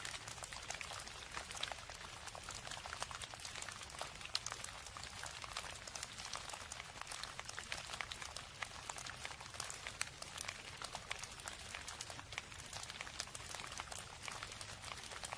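Steady rain falling: an even hiss dotted with many sharp individual drop ticks.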